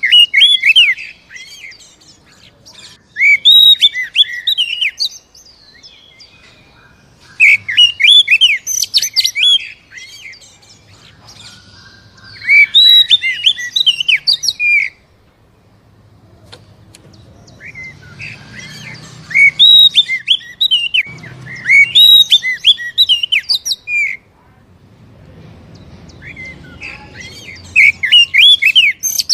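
Oriental magpie-robin (kacer) singing loud, varied song: about seven bursts of rapid whistles and chirps, each a second or two long, separated by short pauses.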